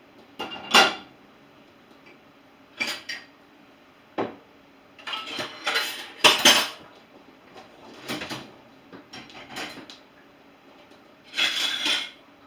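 Dishes and cutlery clattering as they are set into a dishwasher's racks: a string of separate clinks and clanks, the loudest about a second in and again about six seconds in.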